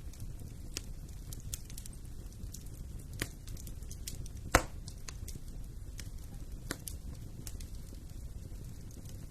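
Wood fire burning in a fireplace: a steady low rumble with scattered sharp crackles, and one louder pop about four and a half seconds in.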